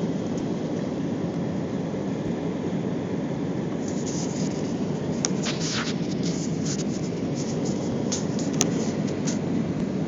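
Steady low roar of engine and airflow noise inside the cabin of an Air India Airbus airliner during landing, with a run of short high crackles and clicks in the second half.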